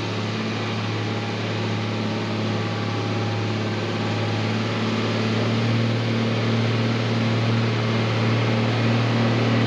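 Mercedes Unimog U1700L truck's diesel engine running at a steady speed while driving: an even low hum with a hiss over it, holding the same pitch throughout.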